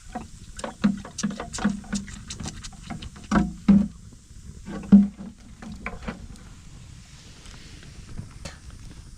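A run of irregular knocks and thuds, about two to three a second, the loudest near the middle, dying away after about six seconds.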